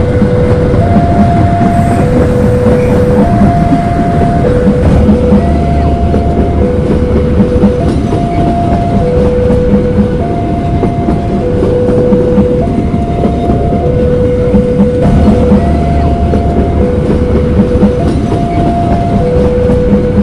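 Passenger train rolling past, with wheels clacking over the rail joints and a steady rumble. Over it a level-crossing warning alarm repeats a two-tone high-low signal, about one tone a second.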